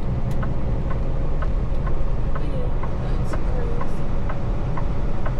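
Steady low rumble of a semi-truck's engine and road noise heard from inside the cab, with a regular ticking about twice a second over it.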